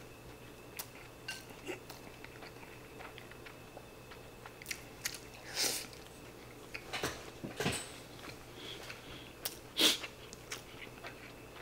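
Close-miked eating sounds: a man chewing mouthfuls of ham-and-egg rice, with many small clicks and a few short, louder mouth noises, the loudest near the end.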